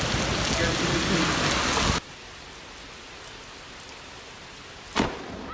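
Heavy rain pelting down: loud for about two seconds, then an abrupt cut to quieter steady rain, with a single sharp knock near the end.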